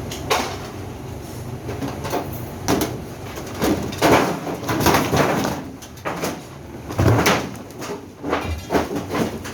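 Irregular knocks, scrapes and clatter of parts being handled while a Whirlpool top-load washing machine is taken apart, with a short rattle near the end.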